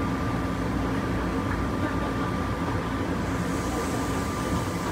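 Steady running noise heard inside the cabin of a rubber-tyred Kanazawa Seaside Line automated guideway train travelling along its elevated guideway, with a thin steady whine running through it. A higher hiss joins about three seconds in.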